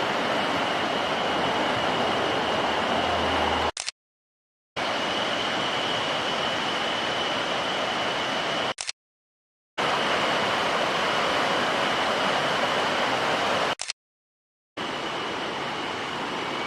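Mountain stream water rushing steadily over rocks. It comes in stretches of about four to five seconds, cut off by three short silent gaps, with a faint steady high tone above it.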